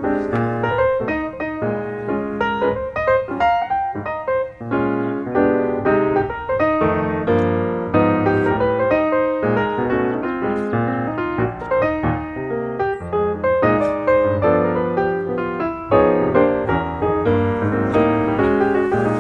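Background piano music, a busy run of struck notes at a steady level.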